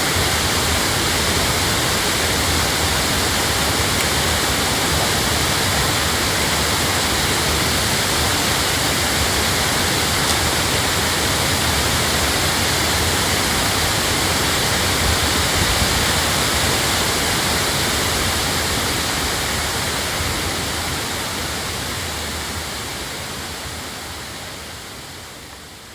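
Waterfall rushing: a steady, dense roar of falling water that fades out over the last several seconds.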